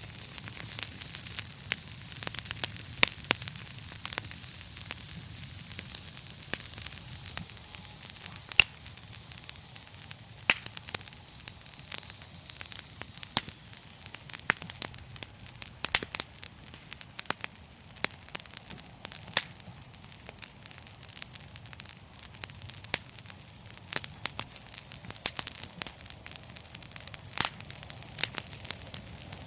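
Wood fire crackling: a steady hiss with frequent irregular sharp pops and snaps, over a faint low rumble of the flames.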